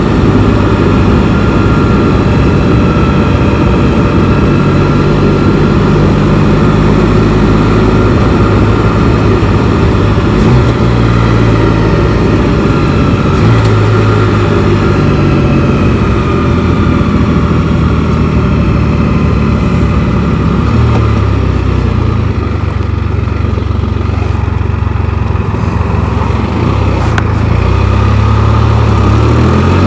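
Can-Am Spyder three-wheeled motorcycle's engine running at road speed, heard from the rider's position. Its pitch drops about two-thirds of the way through as it slows, then rises near the end as it accelerates again.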